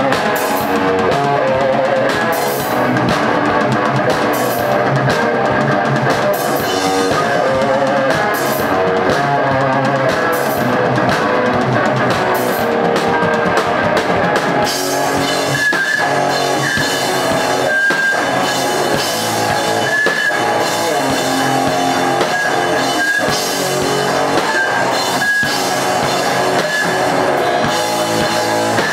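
A live rock band playing, with drum kit and electric guitar; the playing gets denser about halfway through.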